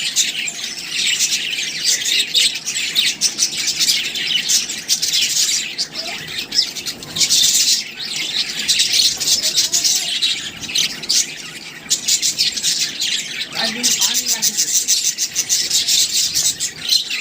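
Budgies chattering and chirping continuously, a dense run of quick high chirps and clicks.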